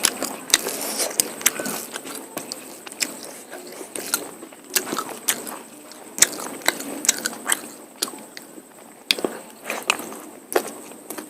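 Close-miked eating of mutton curry and polao rice: chewing, with many irregular sharp wet clicks and lip smacks.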